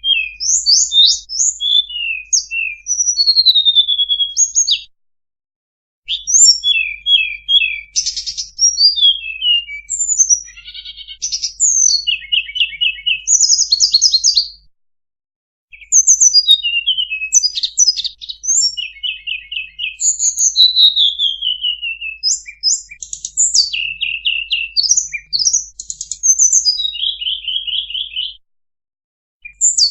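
Tledekan songbird song played as a lure call: rapid varied phrases of high chirps, quick trills and descending whistles, broken twice by short pauses.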